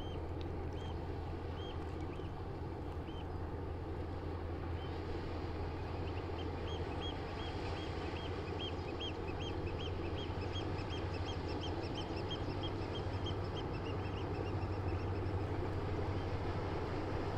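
River-bank ambience: a steady rush of water under a low engine drone from a passing ship, which slowly grows louder. A bird calls a few times, then gives a quick even series of short high chirps, about three a second, for most of the middle.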